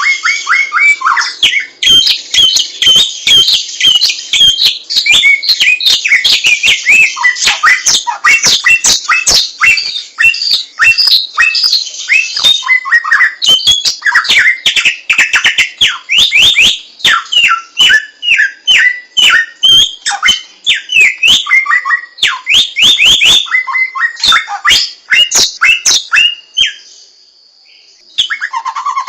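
Samyong songbird singing a loud, fast, varied song of short whistled and chattering notes, with sharp clicks scattered through it. The song breaks off about two and a half seconds before the end, then starts again just before the end.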